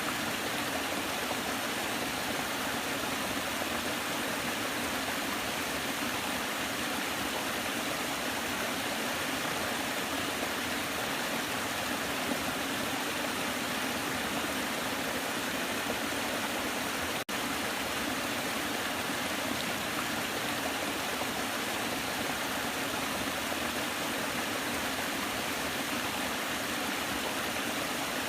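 Waterfall: a steady rush of falling water, an even hiss with little deep rumble, broken by a split-second dropout about two-thirds of the way through.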